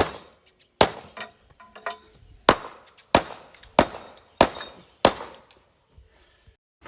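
Repeated sharp blows breaking up material during a house demolition, about seven strikes, each with a short ring or rattle of debris. The later strikes come evenly, about one every two-thirds of a second.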